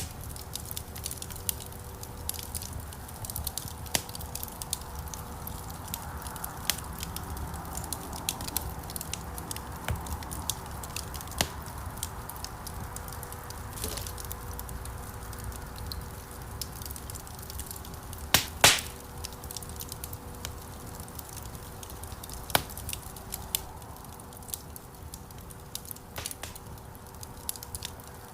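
Wood fire crackling in a fireplace: a steady low rush of burning with scattered sharp pops throughout, and a louder burst of pops about two-thirds of the way through.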